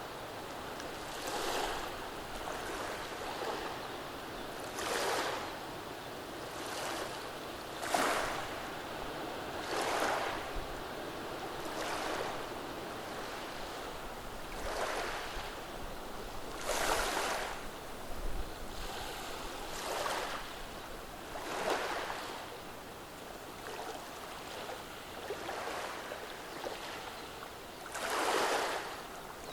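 Small calm-sea waves washing over a beach of rounded cobblestones. Short rushes of water over the stones come every few seconds at uneven spacing, over a steady soft hiss.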